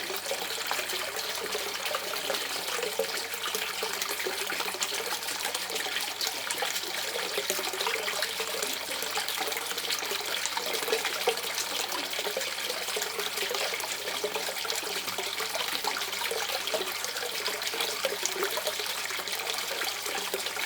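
River water running and gurgling steadily, with an even rush and a shifting, bubbling gurgle.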